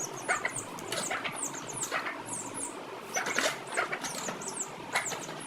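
Chicks peeping: many short, high, falling cheeps overlapping one another, with a few louder, lower calls among them.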